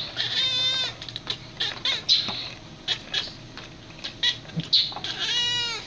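Cat meowing: two drawn-out meows that rise and fall in pitch, one near the start and one near the end, with short clicks and brief high squeaks in between.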